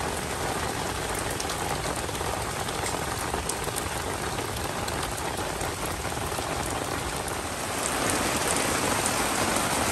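Heavy monsoon rain falling steadily, a dense even hiss with scattered drop clicks, growing a little louder near the end.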